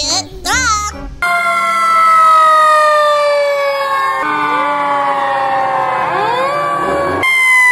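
Fire engine sirens wailing, several tones at once whose pitch slowly falls, with a rising wail coming in about six seconds in. It is preceded by about a second of quick warbling siren sound.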